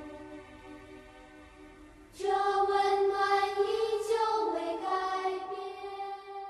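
Choral music with long held chords: one chord fades away, then a louder sustained chord enters about two seconds in and slowly fades.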